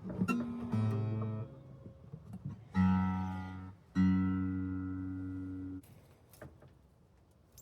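Martin D-16 steel-string acoustic guitar being played: a few single notes picked, then two chords strummed, the second ringing for almost two seconds before it is damped.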